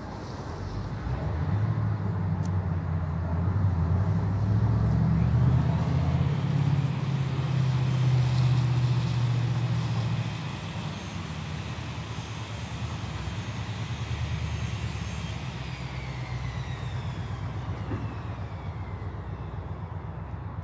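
An engine running with a steady low hum that grows louder over the first few seconds, drops about ten seconds in, then holds steady.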